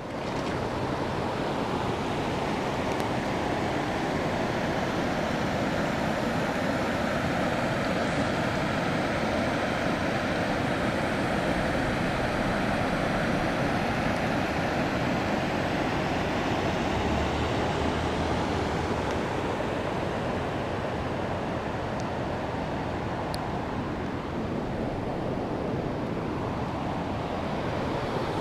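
Floodwater rushing steadily, a loud even roar of moving water.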